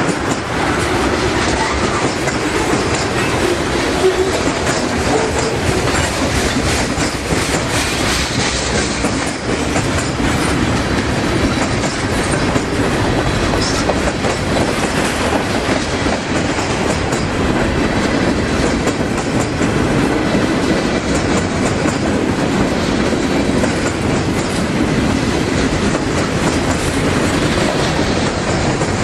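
Freight train cars rolling past, a steady loud rumble and clatter of steel wheels on the rails.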